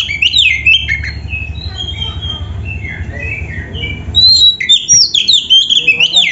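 Oriental magpie-robin (kacer) singing a fast, varied song of high whistled and scratchy phrases, its repertoire filled in with canary-like phrases. It is loud at the start, softer warbling follows, and it turns loud again about four seconds in.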